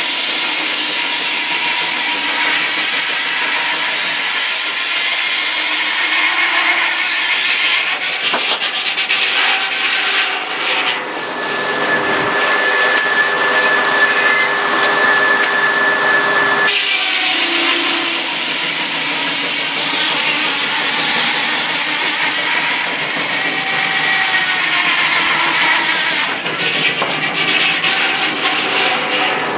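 Sawmill saw cutting through a log with a loud, steady ripping noise. About eleven seconds in the cut ends and a steady whine is left for several seconds. Then a second cut starts.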